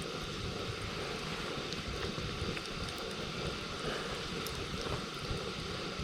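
Campfire burning with a few faint, sparse crackles over a steady low rumble.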